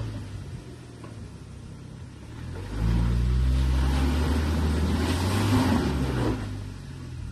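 BAIC BJ40 SUV engine climbing a muddy slope. It runs quietly at first, revs up sharply about three seconds in and holds there for a few seconds with a rushing noise over it, then eases off near the end.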